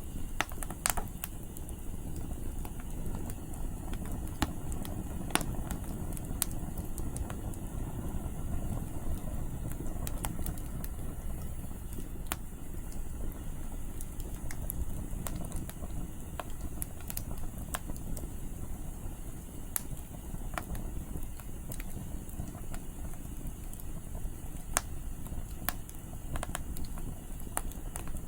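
Wood campfire burning, with sharp crackles and pops from the firewood scattered every second or so over a steady low rumble of wind.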